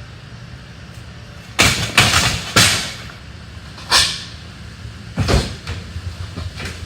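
Loud crashes and clatters of junk being thrown or dropped into a truck, about five in four seconds, over a steady low hum.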